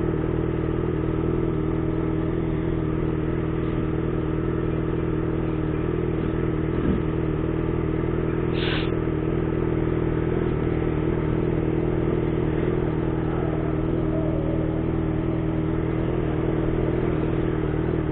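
Yamaha motorcycle engine idling steadily while the bike stands still. A short, high-pitched sound cuts in briefly about halfway through.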